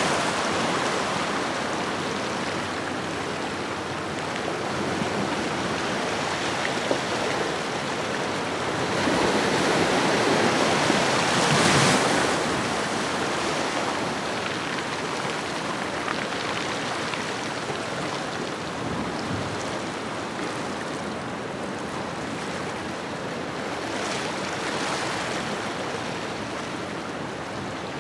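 Ocean waves washing onto a shore in a continuous rush. It swells and ebbs slowly, with one wave building to a louder break about twelve seconds in and a smaller one near the end.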